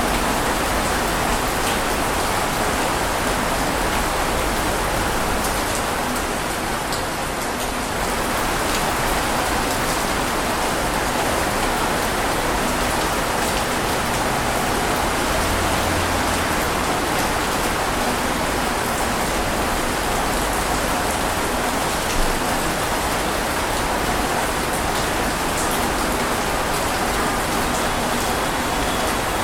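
Steady rain falling on a surface, a dense even hiss of drops with scattered individual drop ticks, easing slightly for a moment about seven seconds in.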